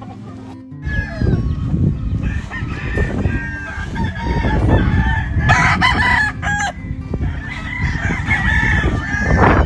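Gamefowl roosters crowing, several calls overlapping and answering one another, with a loud low rumble underneath from about a second in.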